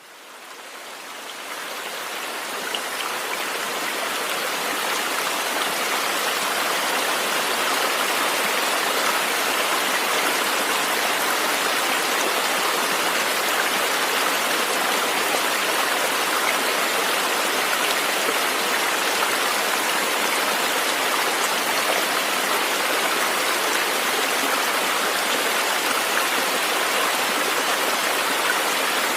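River water rushing steadily, a continuous hiss of flowing stream water that fades in over the first few seconds.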